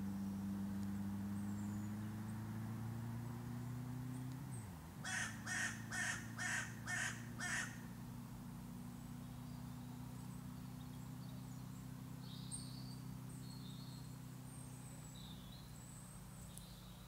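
A bird calls six times in quick succession, about two calls a second, over a steady low hum. Faint high chirps follow later.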